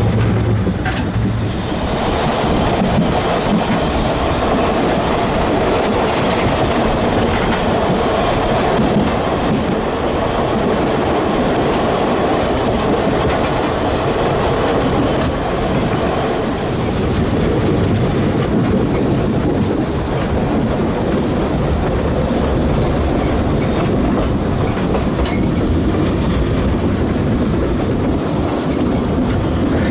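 750 mm narrow-gauge steam train running, heard from aboard a carriage: a steady rolling noise of the wheels on the rails.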